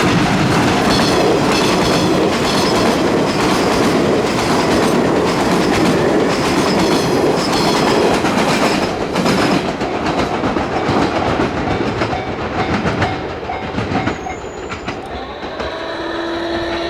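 A limited express train passing a level crossing at speed, its wheels clacking over the rail joints in a dense rush of rolling noise that fades after about fourteen seconds. A level-crossing warning bell rings in even pulses under the noise. Near the end a steady pitched hum comes in.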